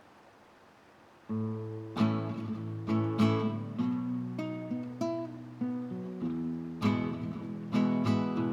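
Acoustic guitar music, plucked and strummed, starting about a second in after a moment of faint hiss.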